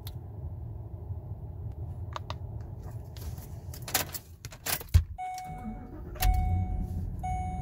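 Ford Expedition engine idling, then switched off with a jingle of keys and a sharp click about five seconds in. A dashboard chime sounds repeatedly, and the engine cranks and restarts about a second later, settling back to an idle.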